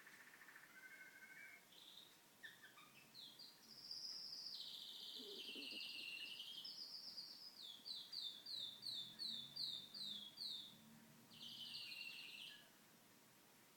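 Pet canary singing: a song of rolling trills and chirps, with a run of about nine quick down-slurred notes in the middle and a buzzy trill near the end.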